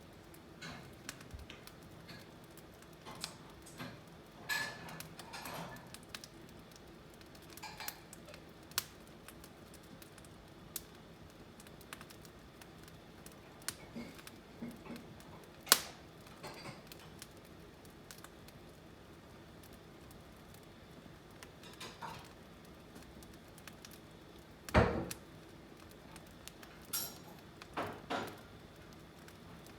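Burning firewood crackling, with irregular sharp snaps and pops; the sharpest snap comes a little past halfway and a heavier pop follows near the end.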